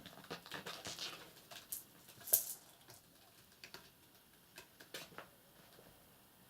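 Kittens moving about, making irregular soft taps, scratches and rustles that cluster in the first few seconds, with the loudest tap about two and a half seconds in.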